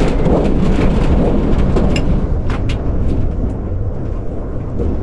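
Strong wind gusts buffeting an electric tricycle camper, heard from inside: a loud low rumble with several sharp knocks and rattles from the shaking vehicle. The gust eases a little near the end.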